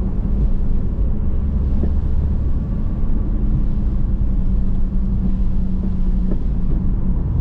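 Pontiac Firebird engine running steadily while driving, with road rumble, heard from inside the cabin.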